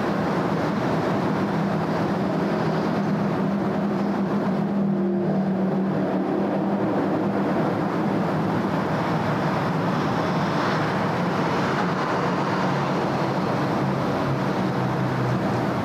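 Steady city road traffic: engines running and tyres on the road, blending into a continuous wash with a low engine hum that swells a little for a few seconds before easing.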